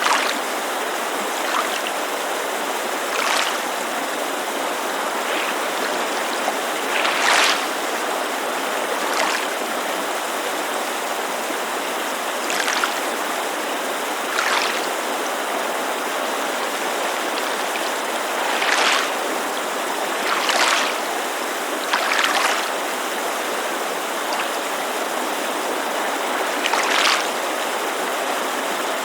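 Water lapping against a lake shore in short, irregular splashes every second or few, over the steady rush of a mountain creek.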